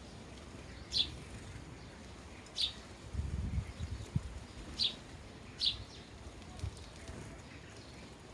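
Sparrows chirping: four short, high single chirps, each dropping in pitch, spaced irregularly over a low rumble that swells briefly in the middle.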